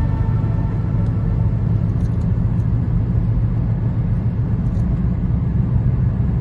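Steady low rumble of a vehicle on the road.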